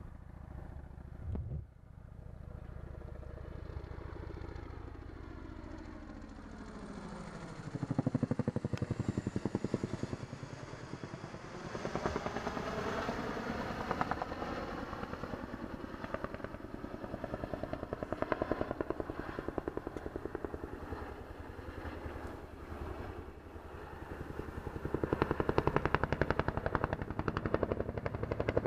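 Boeing CH-47 Chinook tandem-rotor helicopter flying over. Its sound grows as it approaches, and from about seven seconds in the rotor blades beat in a fast, steady chop that is loudest near the end.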